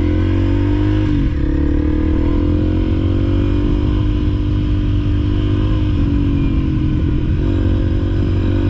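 Honda CRF300L's single-cylinder four-stroke engine running at a steady trail-riding pace, its pitch dipping briefly about a second in and again near the end as the throttle eases.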